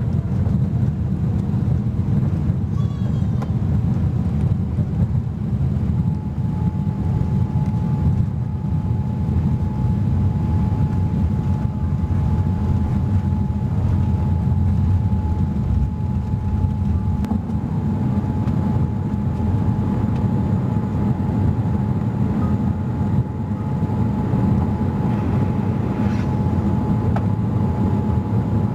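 Steady jet engine and airflow noise of a Boeing 787-8 heard inside the cabin: a loud, even, low rumble, with a thin steady whine joining about six seconds in.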